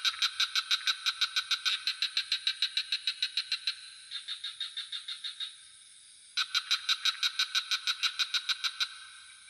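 Frogs calling in rapid pulsed trills of about eight pulses a second, in two long runs with a short break between them, over a steady high drone of crickets.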